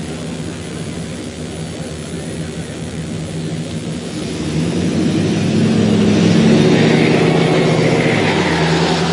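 A pickup truck's engine running with a steady low drone. It builds in loudness about halfway through and stays loud.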